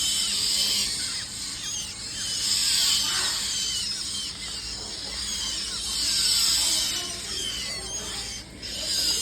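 Birds calling with many high, short chirps and squeaky falling notes, overlapping and continuous.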